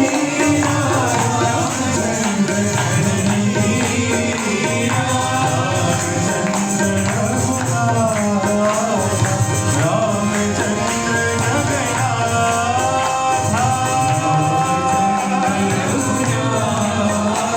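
Devotional bhajan singing with tambourine accompaniment: a sung melody over a steady rhythmic backing.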